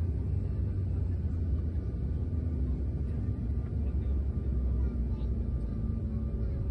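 Steady low rumble of a vehicle running, with faint steady tones above it.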